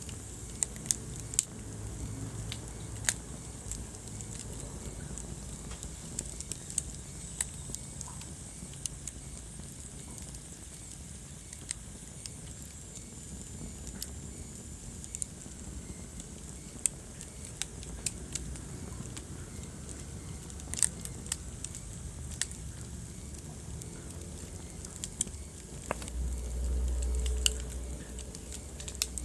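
Wood fire crackling in a fireplace: irregular sharp pops and snaps over a steady low rumble of burning. About 26 seconds in the low rumble swells louder for a couple of seconds.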